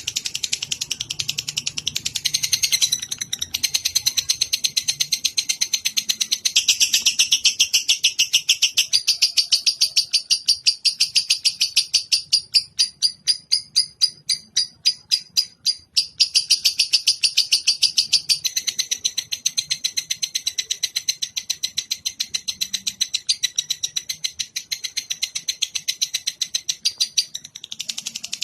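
Lovebird chattering in a long, fast, unbroken run of high chirps. Around the middle it slows to separate chirps, about three or four a second, then returns to the rapid chatter. This is the long 'ngekek' chatter used as a training call for other birds.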